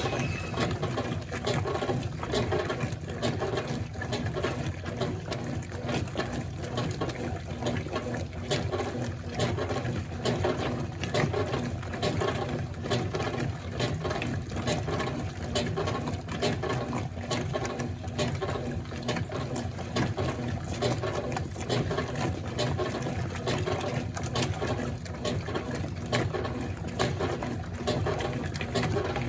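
Consul Facilite top-loading washing machine running its wash cycle: the agitator churns a load of rags back and forth through soapy water, giving a steady pulsing slosh with motor and drive noise.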